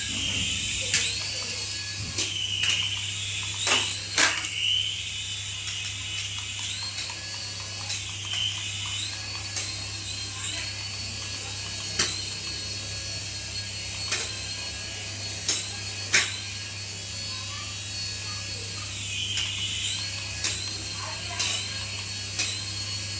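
Small electric motor of a remote-control toy whirring with a high whine that rises and falls every few seconds, over a steady hum, with scattered sharp clicks.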